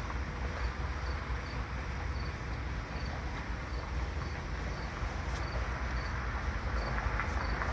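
Outdoor ambience: a steady low rumble, with a faint high insect chirp repeating about every two-thirds of a second.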